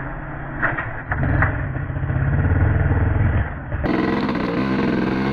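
Honda TRX250R quad's two-stroke engine running as it tows a dead dirt bike over a rocky trail, with a few short knocks about a second in.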